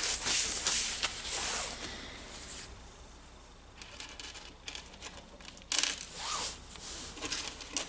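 Rustling and scraping as the rotary hammer's greased striker and cylinder parts are handled and worked together, with a few light clicks and one sharper knock about six seconds in.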